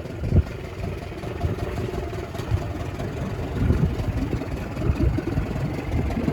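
Wind buffeting the microphone in irregular low rumbling gusts, with a single knock about half a second in.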